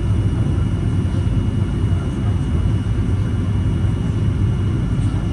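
Steady low rumble of a Boeing 737-800 cabin in flight: airflow and jet engine noise at an even level, with a faint steady high whine above it.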